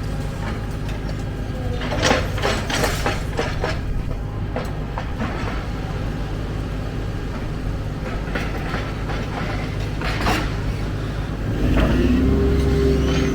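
Excavator's diesel engine running steadily, with scattered metallic clanks and rattles from the machine's working parts. Near the end the engine revs up and holds at a higher pitch.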